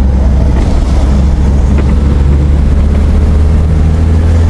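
Steady, loud low rumble of a vehicle on the move, engine and road noise climbing a hill road.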